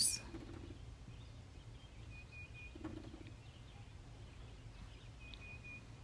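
A bird calling faintly twice, about three seconds apart, each call a quick run of three or four short notes on one high pitch, over a low steady rumble.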